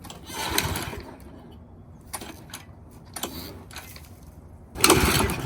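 Kohler XT-675 auto-choke lawnmower engine being pull-started on its first start after winter storage: a recoil-starter pull about half a second in, then a much louder pull near the end as the engine turns over.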